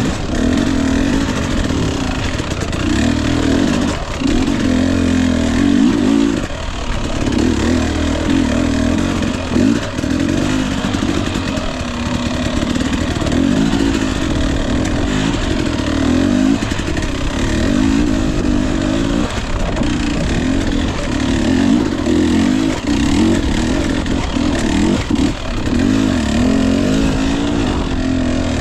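Husqvarna TE 250i fuel-injected single-cylinder two-stroke dirt bike engine revving up and down as the throttle is worked over rough ground. The note swells and eases every second or two, with a few brief drops off the throttle.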